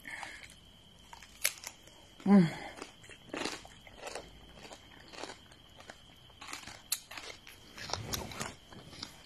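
Raw cucumber being bitten into and chewed, with crisp crunches at irregular intervals. A short vocal sound a little over two seconds in.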